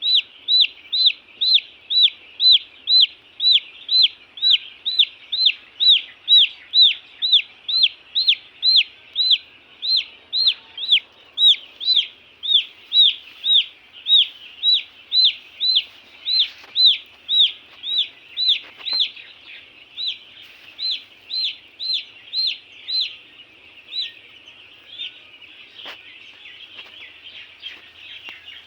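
A chick peeping loudly and steadily, about two high peeps a second, each note rising and then falling. Near the end the regular peeps give way to a fainter jumble of chirping.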